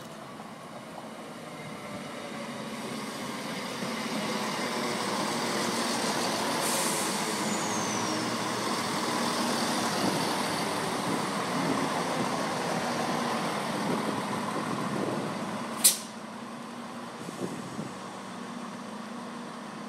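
Greater Anglia Class 170 Turbostar diesel multiple unit running into the platform and braking to a stand, its wheels and engines growing louder as it draws level. A short falling squeal comes about seven seconds in, and a single sharp high burst about sixteen seconds in, after which it settles to a quieter steady sound.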